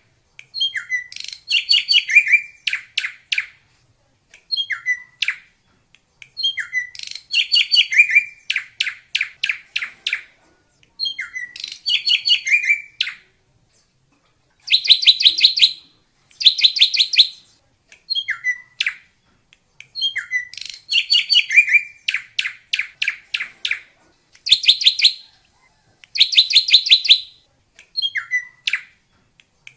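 Drongo singing: repeated phrases of a few clear whistled notes followed by a fast run of sharp, ringing notes, one phrase every two seconds or so with short pauses between.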